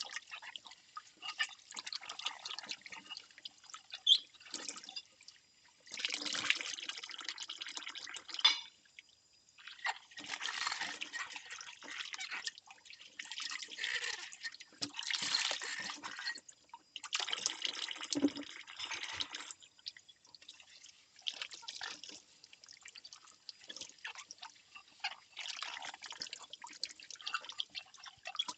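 Bowls being washed by hand in a sink: water runs and splashes in several bursts of two to three seconds, with sharp clinks of ceramic in between, the loudest about four seconds in.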